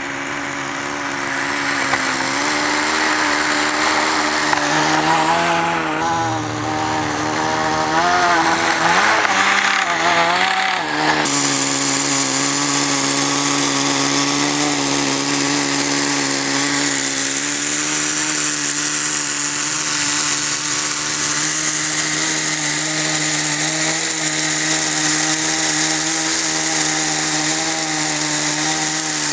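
Small nitro glow engine of a Kyosho Nitro Blizzard RC snowcat running during tuning. Its speed wavers up and down for several seconds about five seconds in, then settles to a steady, even note.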